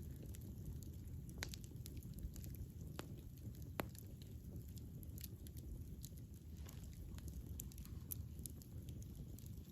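Wood fire burning with irregular sharp crackles and pops over a steady low rumble of flames, the loudest pop about four seconds in.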